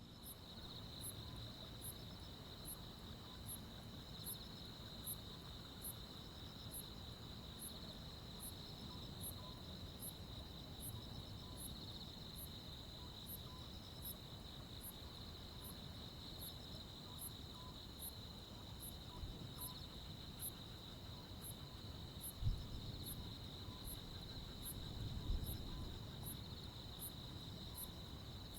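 Crickets and other insects calling on a summer night: a steady high trill, with a regular chirp about twice a second above it. A low rumble runs underneath, with two brief thumps in the second half.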